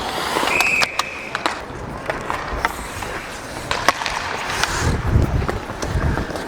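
Ice hockey skates scraping and carving on the ice, with sharp clacks of sticks and puck throughout. A short high-pitched squeak comes about half a second in, and a low rumble about five seconds in.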